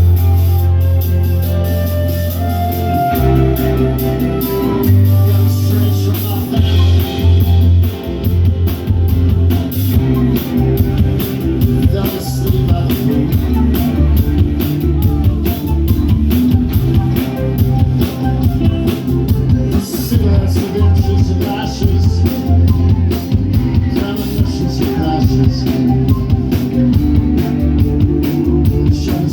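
Live rock band playing with guitar and drum kit. A steady drum beat comes in about three seconds in.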